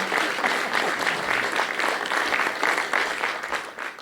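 Audience clapping after a performance, fading out about three and a half seconds in.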